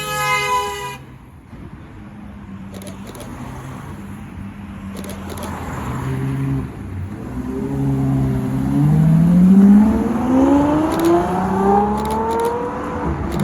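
Straight-piped Ferrari F12's V12 revving sharply and dying away within the first second. From about five seconds in it pulls away and accelerates hard, the pitch climbing through gear changes, loudest around ten seconds in.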